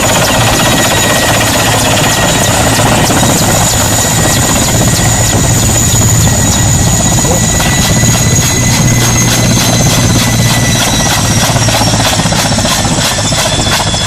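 Helicopter running close by: a steady chop from the rotor under a high turbine whine, the whine slowly falling in pitch over the second half.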